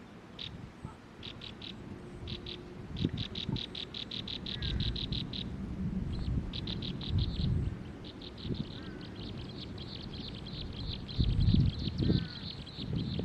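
A bird calling in rapid trains of short, high chirps, about six a second, in several bouts that run almost without a break in the second half. Irregular low rumbling thumps come and go underneath, strongest near the end.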